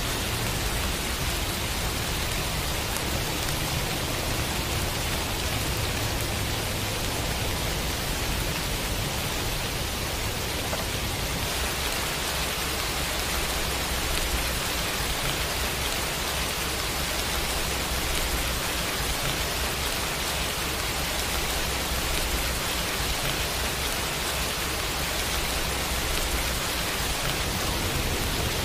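Steady rain falling, an even hiss with no single drops standing out; it grows slightly brighter about eleven seconds in.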